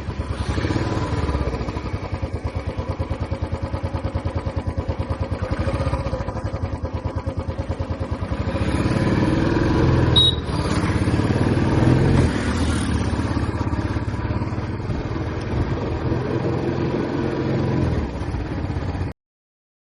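Royal Enfield Classic 350's single-cylinder engine running on the move, a steady rapid exhaust thump. It grows louder about eight seconds in. The sound cuts off abruptly near the end.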